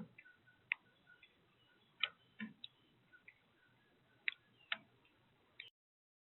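Irregular sharp taps and knocks at a bird feeder, about six in all, with a few faint short chirps between them. The sound cuts off abruptly to dead silence near the end.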